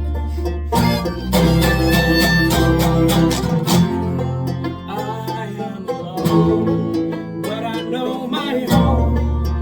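Live folk band playing an instrumental passage with banjo and guitar picking over a bass line. The bass drops out about three and a half seconds in and comes back near the end.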